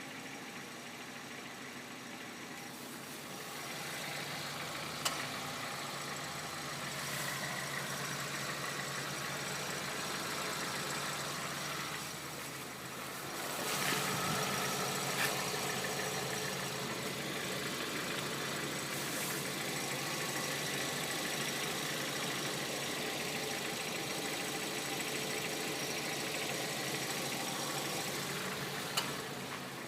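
Hyundai Solaris engine idling cold with a steady whistle from a drive-belt roller (pulley), a fault bad enough that the roller was replaced under warranty. The sound swells about halfway through, and a few sharp clicks stand out.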